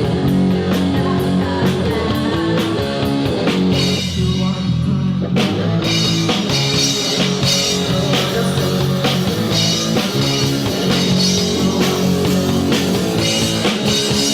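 Rock music with guitar, bass and drum kit. The cymbals and upper end drop out briefly about four seconds in, then the full band comes back in.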